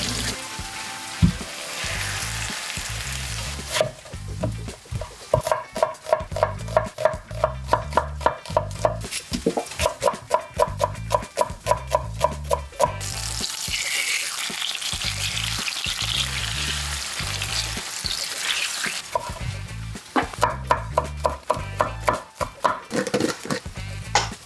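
Food sizzling as it fries in oil in a pan, with runs of quick sharp taps, about three a second, from a utensil working in the pan. Background music with a steady beat runs underneath.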